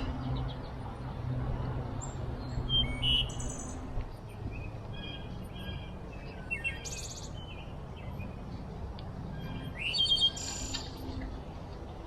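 Small songbirds chirping and calling in short scattered bursts, with a faint low hum underneath during the first few seconds.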